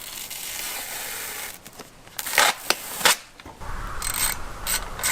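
A sticker peeling off plastic bodywork: a steady tearing hiss for about a second and a half, then a few sharp cracks. From about four seconds in comes the even clicking of a ratchet at work.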